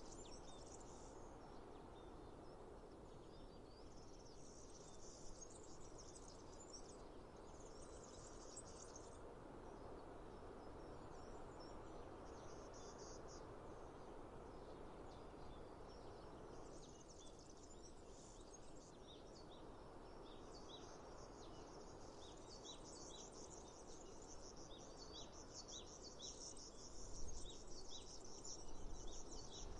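Faint natural outdoor ambience: a steady hiss, with patches of high insect chirring that come and go. From about two-thirds of the way in, a quick run of short, high bird chirps joins the chirring.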